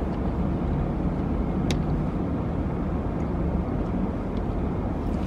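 Steady low rumble of a car idling, heard from inside the cabin, with one small sharp click under two seconds in.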